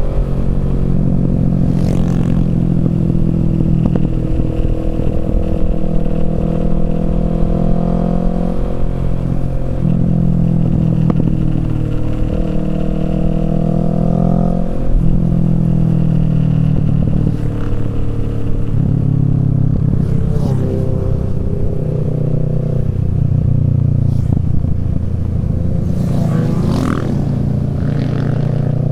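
Kawasaki Z650's parallel-twin engine through a Yoshimura Alpha exhaust, running under way; its note holds for a few seconds at a time and steps up and down several times. A brief rushing sound comes near the end.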